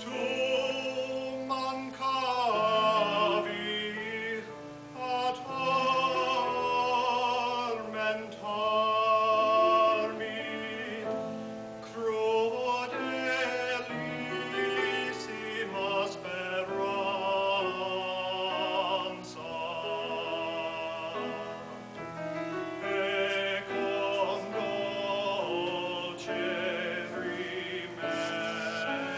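Classical solo voice singing an Italian baroque aria with vibrato over piano accompaniment.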